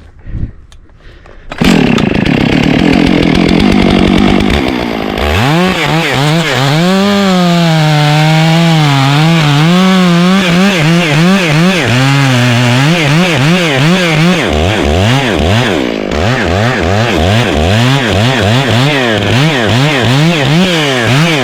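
Gas chainsaw with a 25-inch bar cutting into a large oak trunk for the felling cut. It cuts in loud and sudden about a second and a half in, then its engine pitch sags and wavers under load in the wood. In the last several seconds the throttle is pulsed in and out about twice a second as the cut is taken a little at a time.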